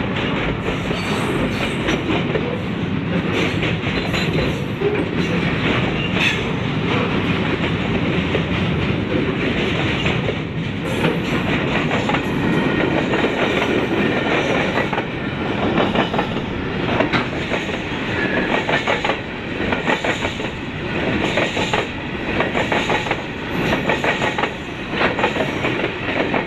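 Long freight train of container flat wagons and hopper wagons rolling past close by: a steady rumble of steel wheels on the rails with clickety-clack as the wheelsets cross the rail joints. In the second half the clacks come through more distinctly, in regular groups.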